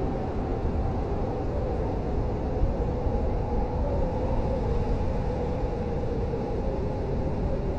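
Blizzard wind blowing steadily, a deep rumble with a faint wavering howl on top.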